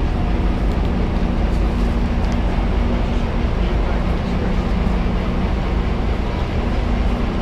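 Diesel passenger train idling at the platform: a steady low rumble with a constant hum.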